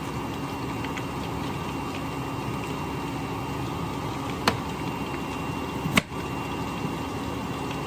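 Steady background hum, broken by two sharp clicks about four and a half and six seconds in.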